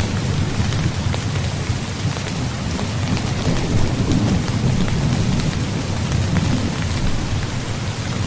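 Steady rain falling on a tent, with scattered sharp drop ticks over a continuous low rumble.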